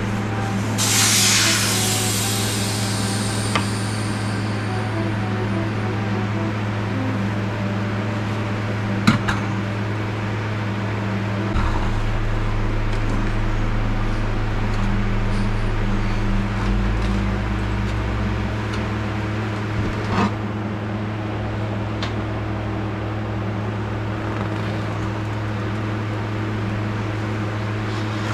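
A short hiss from a spray can about a second in, over a steady mechanical hum like a fan. A few sharp clicks and knocks come later, and a deeper rumble runs through the middle.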